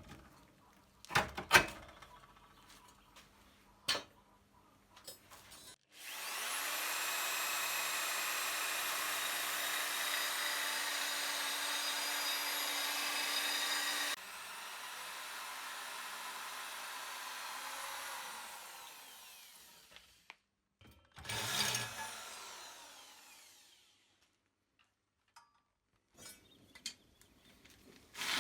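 An electric power tool spins up about six seconds in and runs steadily at a high pitch for about eight seconds. It is then switched off and winds down with falling pitch over several seconds. A few clicks and knocks come before it, and a short rough scraping burst follows.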